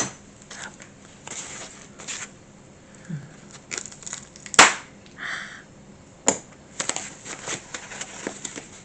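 Plastic packaging being opened by hand: crinkling and rustling, broken by a few sharp snaps and clicks.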